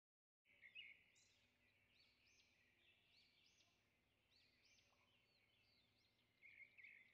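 Very faint birdsong: repeated short, high chirps and whistles, starting about half a second in, a little louder near the start and again near the end.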